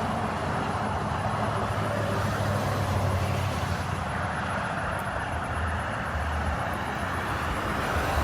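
Jet engines of a Southwest Airlines Boeing 737, a steady broad rumble with a low hum underneath.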